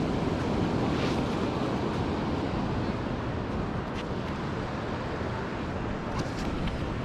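Ocean surf washing on the beach with wind on the microphone, a steady rushing noise that eases slightly midway, with a few faint ticks.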